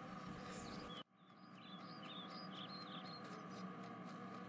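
Faint background ambience that cuts out abruptly about a second in, then returns with a run of short high chirps from small birds.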